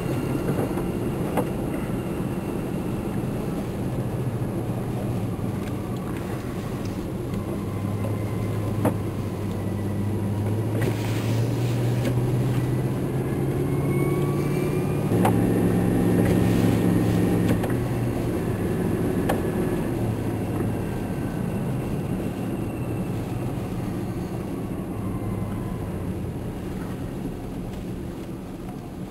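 Vehicle engine running while driving, heard from inside the cabin. Its pitch climbs as it speeds up from about eight seconds in, stays higher until around eighteen seconds, then settles back to a steady drone.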